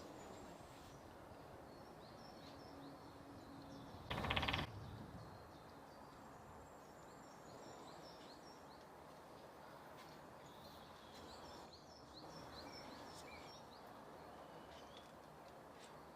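Great spotted woodpecker drumming: one short, rapid roll of bill strikes on wood lasting about half a second, about four seconds in, with small birds chirping faintly around it.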